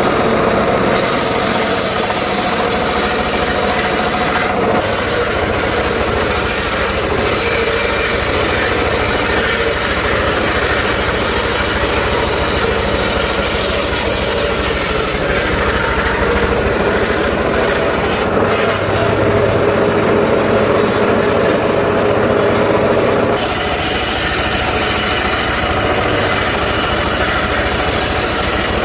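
Homemade circular saw running steadily while sawing sengon wood. Its sound shifts from about 18 seconds in to about 23 seconds in, then settles back.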